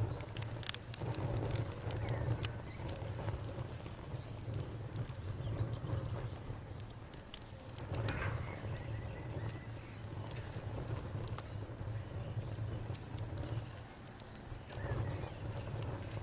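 Wood fire crackling with scattered sharp pops and a low rumble that swells and fades, over a cricket's steady high pulsing trill and birds calling now and then.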